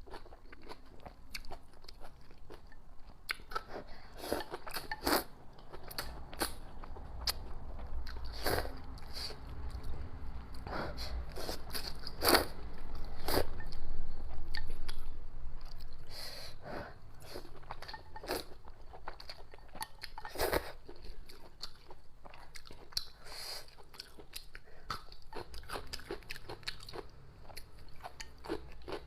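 Close-miked eating: a person chewing a mouthful of spicy noodles and pig intestines, with many short wet smacks and clicks of the mouth, and a louder stretch about halfway through.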